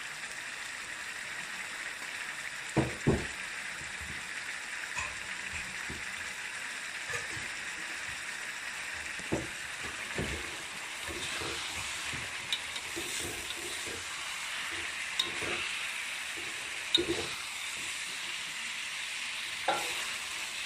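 Chicken, onions and spices sizzling in hot oil on a tawa, a steady frying hiss, with a spatula scraping and knocking against the pan as it is stirred, the loudest two knocks about three seconds in.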